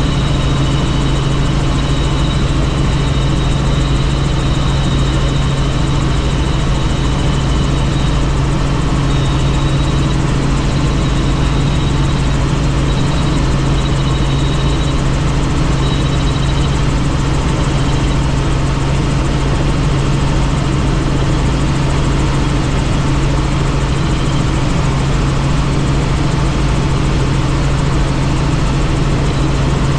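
Helicopter in steady flight: a constant loud rotor and engine drone with a steady low hum, plus faint high whining tones that fade out about halfway through.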